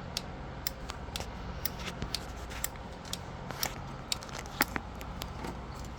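A good 12-volt automotive relay clicking on and off in a relay tester, about two clicks a second and evenly spaced, over a low steady hum. The relay keeps switching through the test cycle, as a good relay does.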